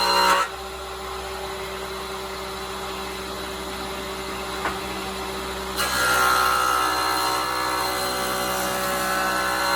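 A power tool running steadily. It drops to a lower, duller sound about half a second in, gives a single click a little before the middle, and comes back louder and higher a bit over halfway through.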